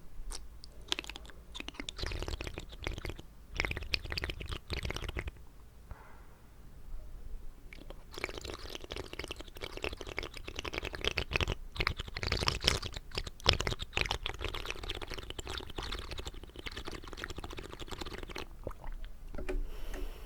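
Wet mouth sounds close to the microphone: quick clicking and smacking of water in the mouth. They come in two long runs, with a short lull about six seconds in.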